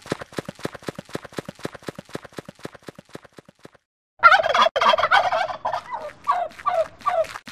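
Domestic turkey: a rapid run of clicks, about eight a second, then about four seconds in a loud, wavering gobble that lasts about three seconds.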